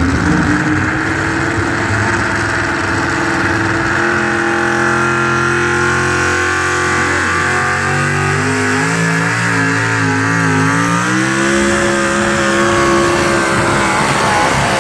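Pulling truck's engine running hard at high revs under load, its pitch wavering, dipping and climbing again about three-quarters of the way through as the driver works the slider clutch with RPM.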